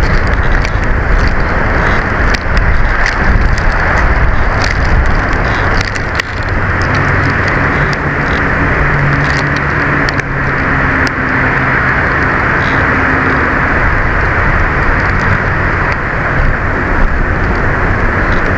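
Strong windstorm gusts blowing over an outdoor nest camera's microphone: a loud, steady rush with scattered crackles and clicks. A faint low drone comes in for several seconds in the middle.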